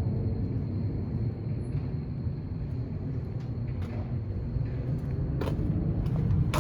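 Dump truck engine running steadily with a low rumble, with a couple of sharp clicks or knocks near the end.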